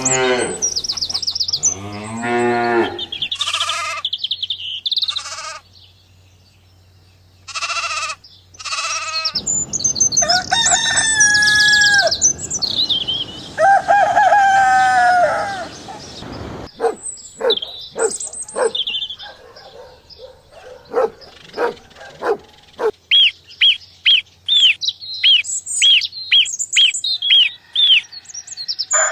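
A series of farmyard fowl calls cut one after another: chickens and a rooster crowing and clucking. Near the end come short high chirps repeated about twice a second.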